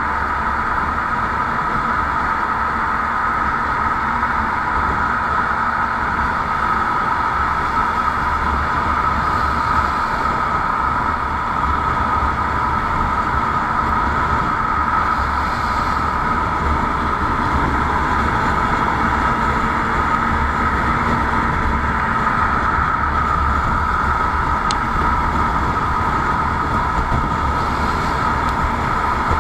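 Motorcycle on the move: a steady, unbroken running noise of engine and wind, with a flickering low rumble, holding the same speed throughout.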